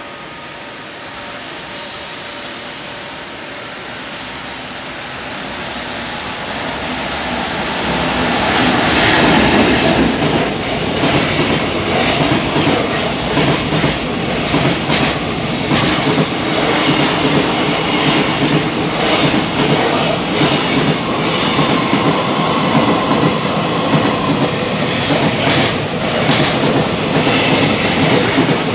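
JR Freight EF210 electric locomotive hauling a container freight train through a station, growing louder over the first eight seconds as it comes near. Then the long rake of container wagons passes, their wheels clattering over the rail joints in a steady run of clicks.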